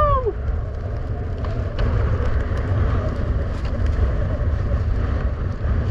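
Strong wind buffeting the microphone in a steady low rumble, over an even hiss and scattered faint clicks from skis running across rough ice. A short 'Yahoo!' shout at the very start.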